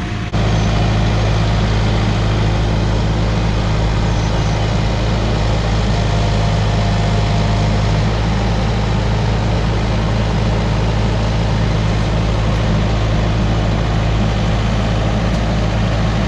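A heavy engine running loud and steady at a constant speed, its level jumping up suddenly just after the start.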